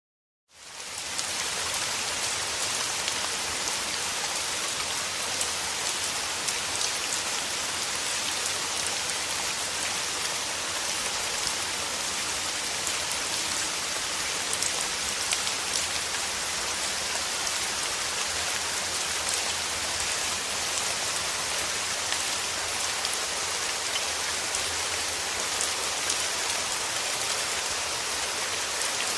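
Steady rain, a dense hiss of falling drops with fine patters on a surface; it fades in from a moment of silence within the first second.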